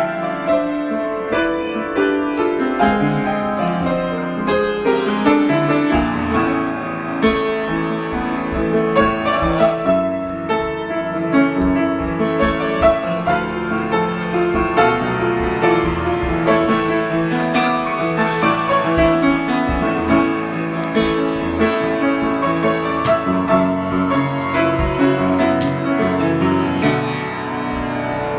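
Piano played in an unbroken flow of improvised notes and chords.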